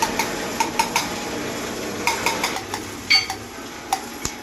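Metal tools and parts clinking and tapping against each other during cylinder-head repair work, in irregular light strikes with a louder clink about three seconds in.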